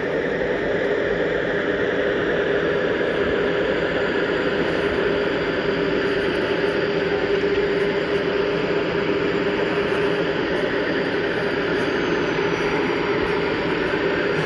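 Steady running noise of a G scale model diesel train, AML GP60 and USA Trains NW2 locomotives pulling a string of hoppers, with a constant even hum at one pitch.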